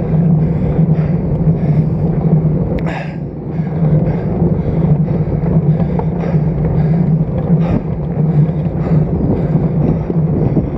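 Wind rushing over an action camera on a road bike's stem while riding, with steady road and tyre noise and a low, even hum. A brief sharper sound cuts through about three seconds in.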